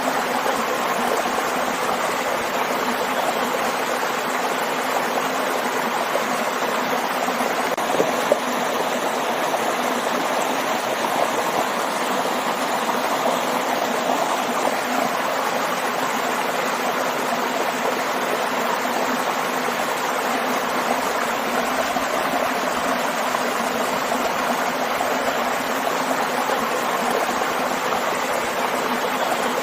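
Water rushing steadily over a waterfall and along a stream, with a couple of small splashes about eight seconds in.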